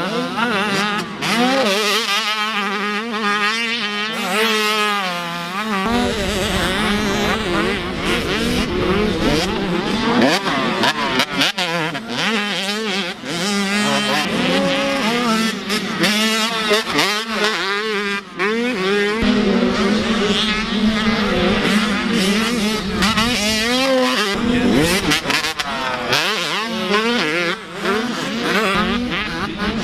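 Several motocross dirt bikes racing, their engines revving up and falling back over and over as the riders work the throttle and shift.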